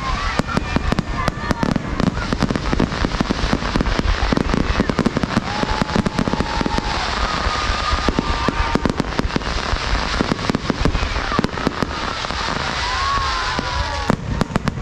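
Fireworks grand finale: a rapid, dense barrage of bangs and crackling shells, with the explosions thinning out and stopping just before the end.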